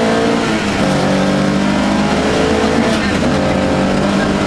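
Opel Manta rally car's engine pulling hard on a gravel stage, heard from inside the cabin over gravel and road noise. The engine note breaks and shifts briefly about half a second in and again near three seconds. The owner says the engine no longer had much pulling power.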